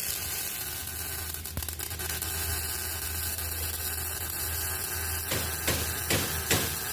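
MIG welding arc hissing and crackling steadily as a bead is laid, with a low hum beneath. About four sharp pops or knocks come in quick succession near the end.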